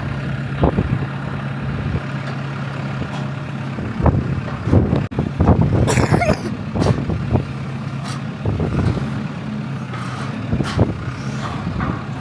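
Diesel engine of a demolition machine running steadily, with repeated knocks and metal clatter from the barn framework being worked and a short hiss about six seconds in.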